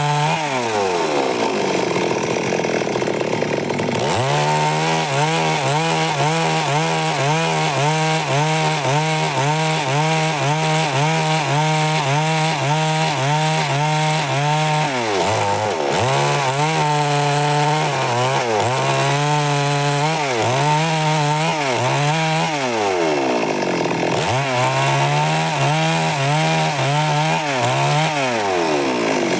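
Stihl MS 382 two-stroke chainsaw cutting through wood at high revs. The revs fall away several times and climb back to full speed.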